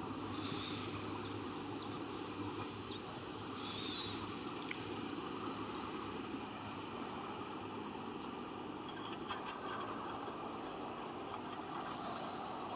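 Steady rumble of vehicle traffic, with faint high chirps over it and one sharp click about five seconds in.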